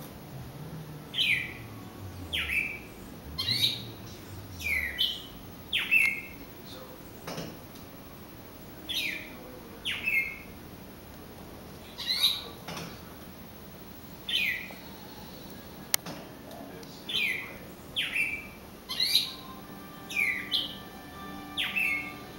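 A bird calling over and over at a glass door: short notes that slide quickly downward and end on a brief held note, repeated about once a second with a few longer pauses. The owner thinks the bird is reacting to its own reflection, taking it for a mate.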